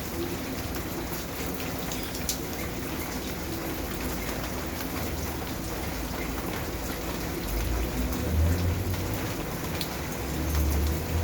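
Steady rain falling, with a fine patter of drops, and two louder low rumbles: one about two-thirds of the way in and one near the end.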